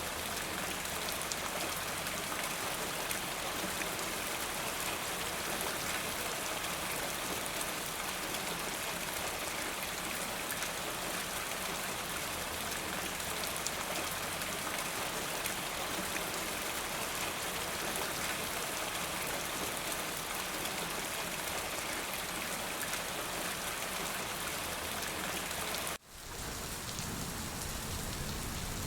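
Steady rain falling, an even hiss of many drops. Near the end it cuts out for an instant, then resumes with a deeper low rumble underneath.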